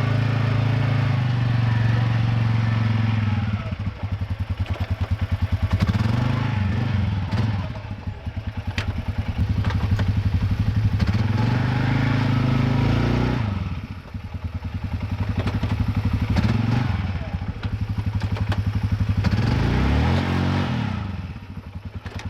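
Can-Am ATV engine revving up several times and dropping back to a pulsing idle between revs while working against a round hay bale that is frozen to the ground.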